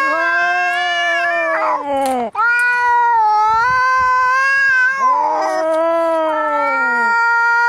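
Domestic cats caterwauling in an angry fight: three long drawn-out yowls, each held and then dropping in pitch at the end, with brief raspy noise between them.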